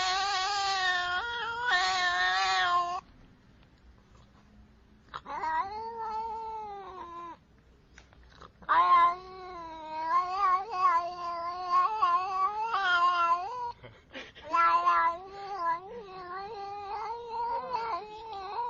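A cat yowling in long, drawn-out, wavering calls: one ends about three seconds in, another follows around five seconds in, and from about nine seconds on longer yowls come with only brief breaks.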